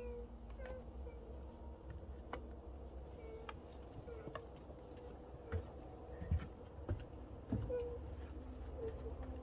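Soft, short chirping calls of a cat, repeated every second or so, with a few dull thumps in the middle, over a steady low hum.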